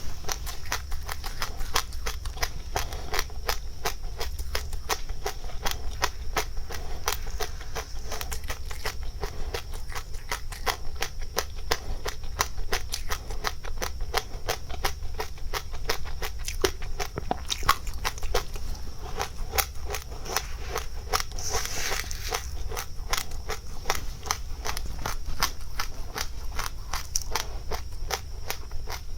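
A person chewing crunchy seeds close to the microphone: a dense, continuous run of small crackles and crunches. A steady high hiss runs underneath.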